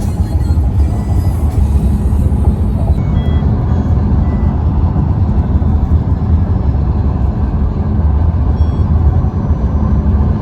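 Steady, loud rumble of a car driving along the road.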